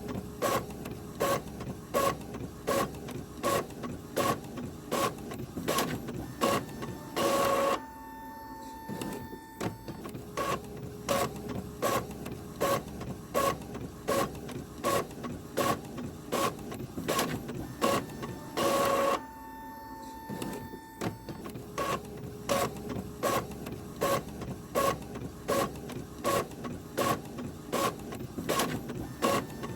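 Printer working: an even rhythm of sharp clacks, about two or three a second. Twice the rhythm breaks for a longer, louder burst followed by a short lull with a faint steady tone.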